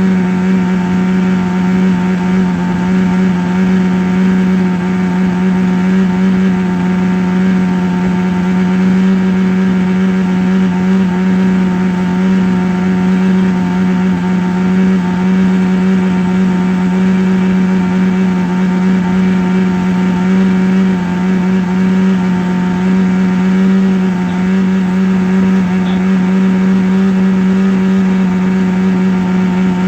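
A motor-like hum running at one steady, unchanging pitch, with a strong low tone and many overtones.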